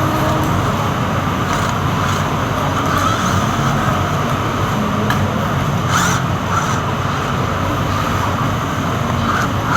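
Steady, fairly loud background noise with a low hum, and a few faint clicks, the clearest about six seconds in.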